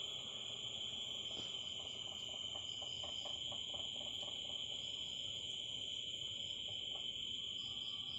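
Steady high-pitched chirring of insects with no break. A few seconds in comes a run of faint quick crunches: a cat chewing peanuts.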